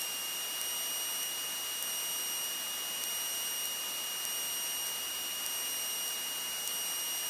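Steady electronic hiss with a thin, high, unchanging whine: the noise floor of a light airplane's headset intercom recording, with no voice on the line.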